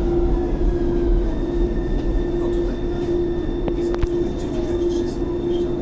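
Thessaloniki Metro train running in the tunnel as it slows into a station: a steady electric hum with a constant tone, a fading whine from the motors falling in pitch at the start, and two sharp clicks a little after the middle.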